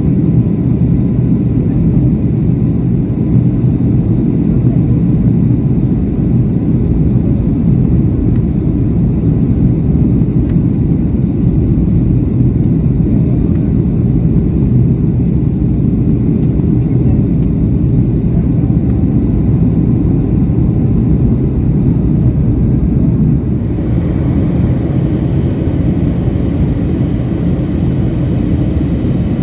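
Boeing 737-800 cabin noise in flight: a steady, loud, low rumble of the engines and airflow. Near the end the sound changes slightly and becomes a little brighter.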